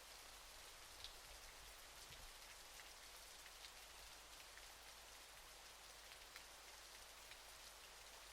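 Faint steady hiss of falling water, with scattered small drip and splash ticks.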